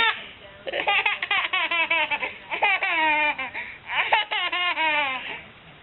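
A baby laughing in three bursts, each a run of quick, high-pitched laughs that fall in pitch.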